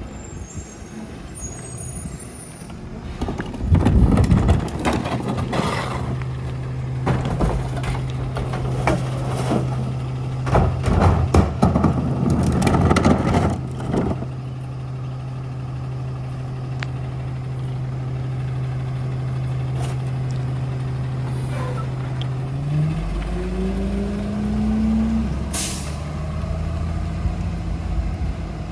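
Ford F-750 rear-loader garbage truck with a Heil body working. Loud clanks and hissing bursts come over a steady engine note in the first half. About 23 s in the engine revs up and falls back, and a short air-brake hiss follows near the end.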